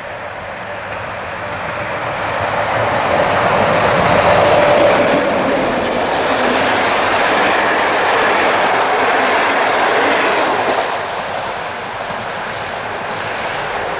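Passenger train hauled by an EU07-family electric locomotive rolling past, wheels clattering over the rail joints. The sound swells to its loudest about a third of the way in, holds, then eases off near the end.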